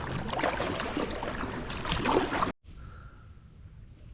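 Kayak paddle splashing and water churning around the hull for about two and a half seconds. The sound then cuts off abruptly and quieter, steady running-water noise follows.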